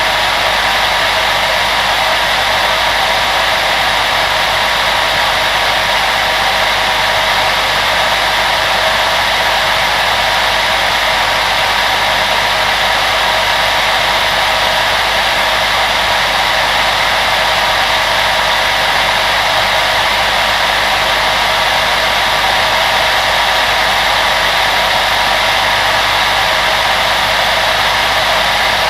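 Electric blower fan running steadily, giving a loud, even rushing noise with a faint steady hum in it and no change in speed.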